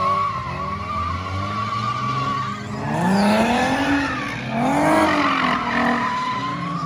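A drifting car: tires squealing in a steady high screech for the first couple of seconds, then the engine revving up and falling back twice as the car slides.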